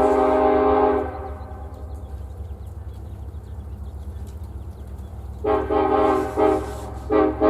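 Diesel locomotive's multi-chime air horn sounding a chord that cuts off about a second in, leaving the low rumble of the passing locomotive. Near the end the horn sounds again: a long blast, a short one, then another long one, in the pattern used at a grade crossing.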